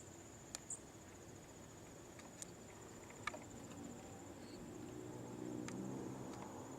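Faint outdoor ambience of insects, likely crickets, trilling steadily and high-pitched, with a few scattered sharp clicks. A low droning hum grows louder from about three seconds in and peaks near the end.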